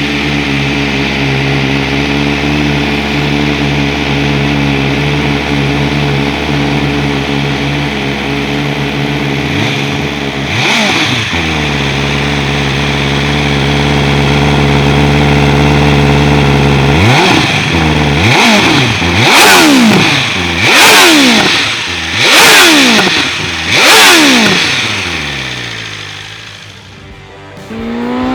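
BMW M 1000 R's inline-four engine through an Akrapovic exhaust, idling steadily. It is blipped once about ten seconds in, then revved sharply about five times in quick succession in the second half before dropping back down.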